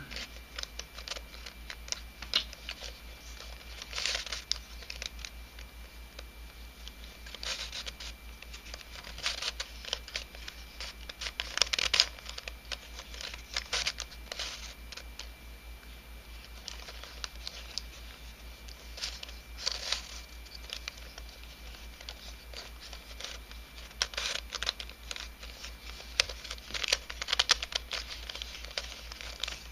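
Pieces of a 3D-printed nylon helicopter cube puzzle scraping and clicking as its faces are twisted by hand, in irregular bursts of quick turns. The puzzle is being scrambled.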